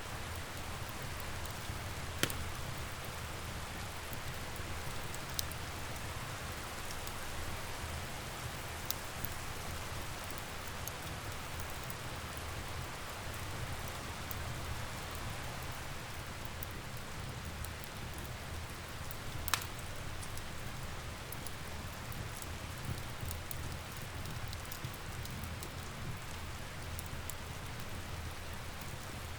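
Steady rain with a low rumble underneath, and now and then a sharp pop from a crackling log fire, the loudest about 2 s and 19.5 s in.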